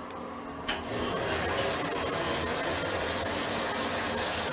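A shower turned on with a click of the handle just under a second in, then water spraying steadily from the shower head onto an open wet-room bathroom floor.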